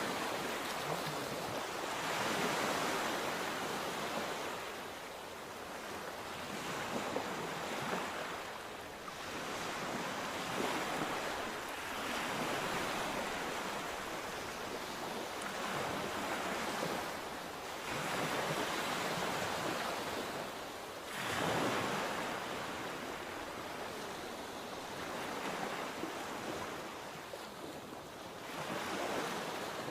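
Sea waves breaking and washing on the shore, a continuous surf that swells and ebbs every few seconds, with one sharper surge about two-thirds of the way through.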